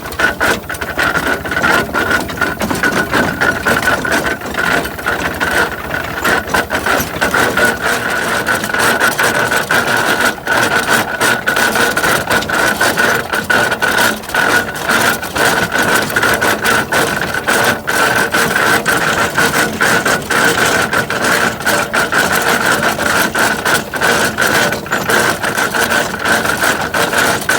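Coal-fired half-scale Case steam tractor running: a fast, steady mechanical clatter with a steady high tone over it.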